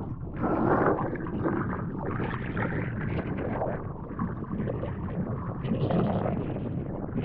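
Gusty wind buffeting the microphone, with pool water sloshing underneath.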